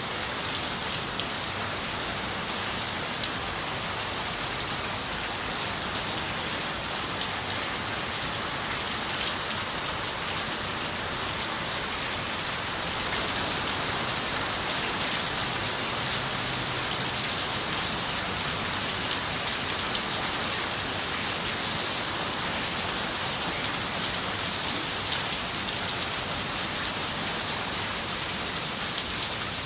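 Steady rain falling on a window, with a few sharp drop ticks. It gets a little louder about thirteen seconds in.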